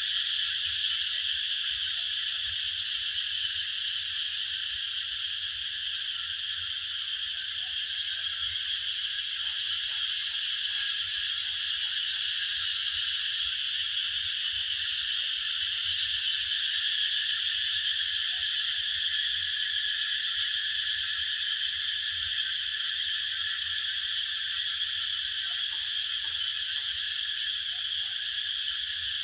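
A dense, unbroken chorus of calling animals, sounding at several pitches at once and holding steady throughout, with a faint low rumble beneath.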